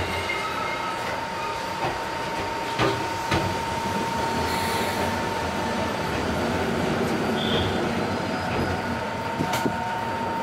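Enoden electric train rolling slowly out of a station, heard from the driver's cab: steady running noise with a constant high tone, and the wheels clicking sharply over the track a few times.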